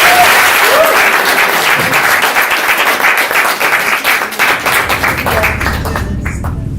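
Audience applauding, with a couple of short cheering whoops near the start. The clapping thins out toward the end as music with a low bass line comes in underneath.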